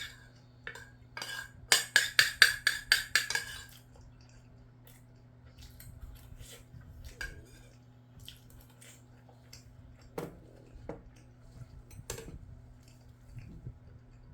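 Metal cutlery clinking against a dish: a sharp click, then a quick run of about ten ringing strikes over two seconds, then occasional light taps and clicks.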